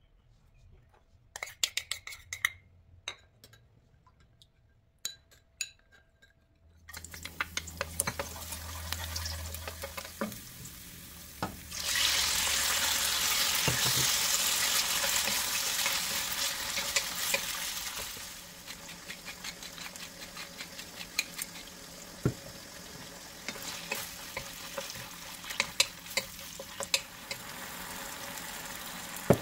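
A few light clinks in a small glass bowl as cornstarch is stirred into the sauce. Then chicken thigh pieces and garlic frying in hot oil in a wok, stirred with a wooden spatula that knocks and scrapes on the pan. A loud sizzle starts suddenly about twelve seconds in, lasts several seconds, then settles to a quieter frying sound.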